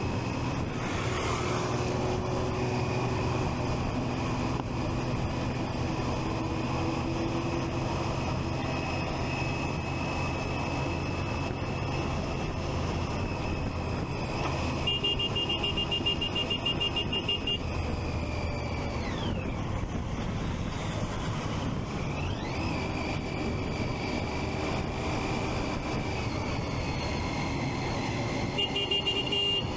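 Triumph Street Triple 675's inline-three engine running under way, with a steady high whine that drops away and climbs back about two-thirds through as the bike slows and picks up speed again. A short rapid beeping sounds twice, around halfway and at the very end.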